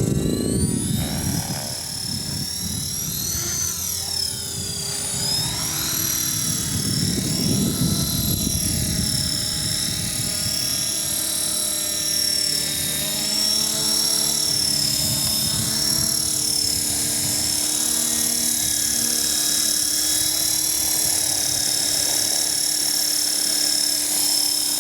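450-size RC helicopter flying: a high-pitched whine from its motor and rotor, its pitch rising and falling over the first several seconds and then holding steady, with a low rumble that fades out about ten seconds in.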